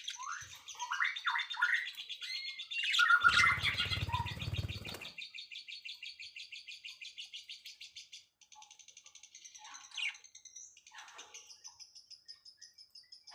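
Small birds chirping, with a fast, high trill that repeats through most of the stretch and a run of short falling chirps near the start. A brief low noise about three seconds in lasts around two seconds.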